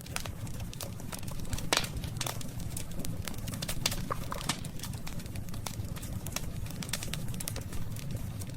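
Wood campfire burning, crackling with frequent sharp snaps and pops over a steady low rumble of the flames; one louder snap comes a little under two seconds in.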